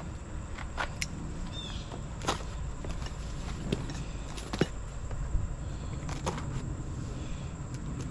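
A few light, scattered clicks and knocks of parts and packaging being handled, over a steady low hum.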